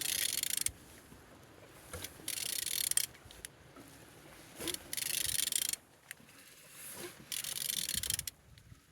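A removed engine being turned over by hand: four rasping, rubbing strokes about two and a half seconds apart, with quiet between them. It turns freely, which is taken as a sign that the engine is not seized.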